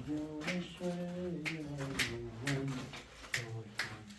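A low-pitched voice talking, with sharp clicks or knocks at irregular intervals about every half second.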